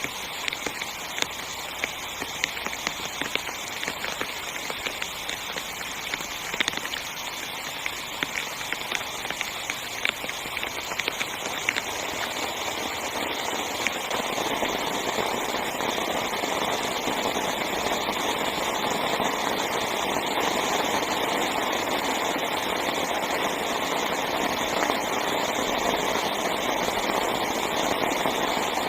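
Heavy rain falling on a tent's fabric, with many sharp individual drop hits over a steady hiss. About halfway through, the rain thickens into a denser, louder downpour.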